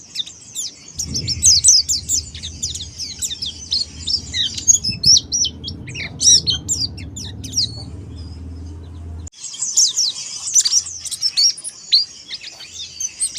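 Mountain white-eye (pleci monty) singing a fast, continuous run of high, quick down-slurred twittering notes. A low rumble sits under the song from about a second in and cuts off suddenly near the nine-second mark.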